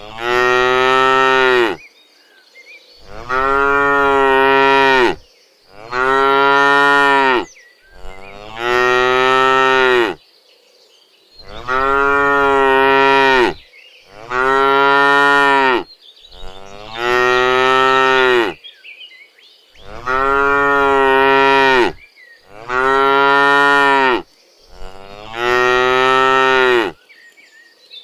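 Cattle mooing over and over: about ten long, loud moos, each held for a second and a half to two seconds, one every two and a half seconds or so, with short pauses between them.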